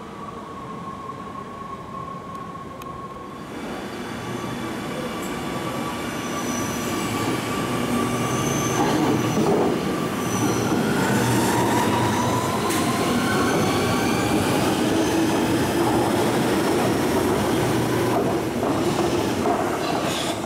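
An NS electric train pulling away with a steady motor whine for the first few seconds. After a sudden change, an Amsterdam metro train runs close by, growing louder, with several whining tones that glide in pitch over the rumble of the wheels.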